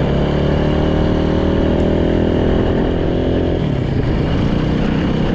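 Freshly rebuilt Yamaha YZ450 single-cylinder four-stroke dirt bike engine running under way, its pitch climbing slowly for about three and a half seconds, then falling off to a lower, steady note.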